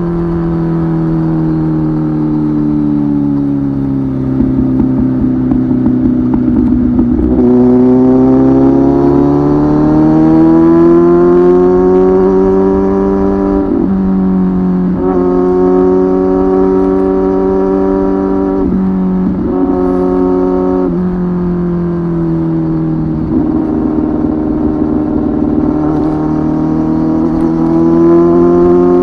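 Kawasaki ZX-10R superbike's inline-four engine through a Tyrants titanium aftermarket muffler, heard from on board while riding. The engine note falls for the first several seconds as the bike slows, then rises under acceleration. The pitch drops sharply about halfway through and again a few seconds later, like gear changes. It eases off, then picks up again near the end.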